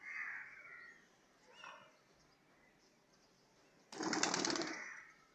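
A bird gives a harsh call, then a shorter one, and about four seconds in there is a loud burst of rapid wing flapping lasting about a second.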